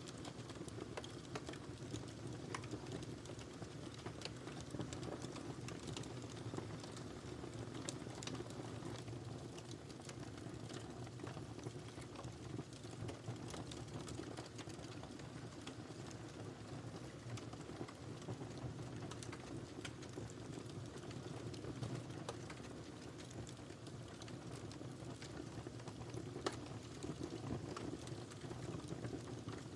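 Wood fire burning in a fireplace: a steady low rumble of flames with frequent small crackles and pops from the firewood.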